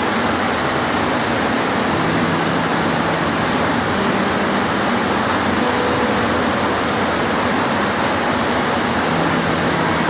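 Steady rain falling, a dense, even hiss. A faint low hum comes in twice, at about two seconds and again near the end.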